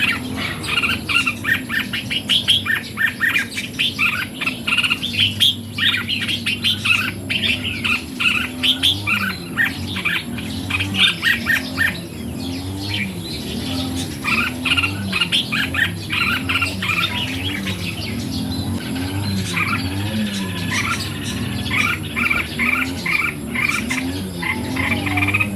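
Red-whiskered bulbuls singing and calling: quick, bright chirpy phrases, thinning out in a lull about halfway through, then resuming. A low, repeating wavering sound runs beneath them.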